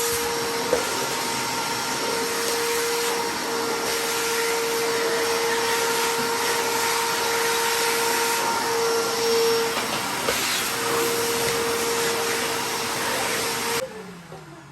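Vacuum cleaner running steadily with a constant whine, then switched off near the end, its motor winding down in pitch.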